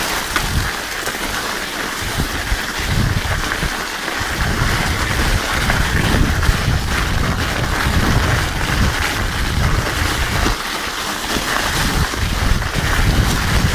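Riding noise of a mountain bike on an icy trail: Terrene Cake Eater studded tires rolling over ice, with wind buffeting the microphone as a steady rushing noise and an uneven low rumble.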